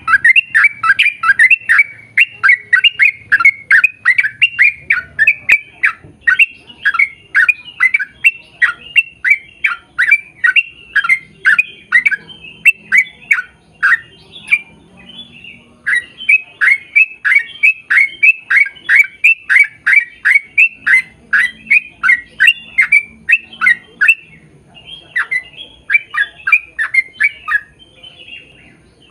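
A bird calling over and over: short, loud, downward-sliding notes, about three a second, in long runs with brief pauses between them.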